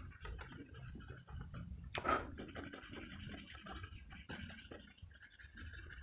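Graphite pencil scratching on paper in quick, irregular short strokes, with one louder stroke about two seconds in and a longer, steadier rub near the end.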